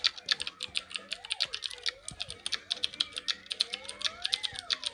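Slide whistle gliding up and down in pitch, with a long slow rise and fall near the end. Under it runs a fast series of sharp clicks, like typing on a keyboard.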